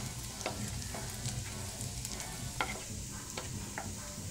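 Chopped garlic sizzling in butter in a non-stick frying pan, stirred with a wooden spatula that scrapes and knocks against the pan every second or so.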